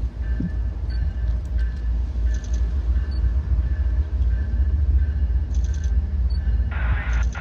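CN freight train passing: a heavy, steady low rumble of the train rolling by, with a faint high tone coming and going. Near the end a louder, choppy higher-pitched sound starts.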